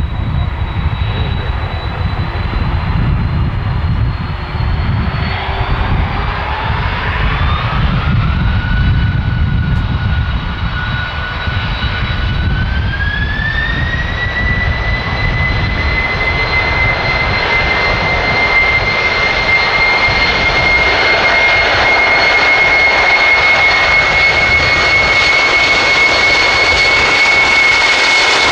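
Boeing 747-400's jet engines spooling up: the whine rises in pitch in two steps, about a quarter and about halfway through, then holds a steady high whine over a low rumble that fades.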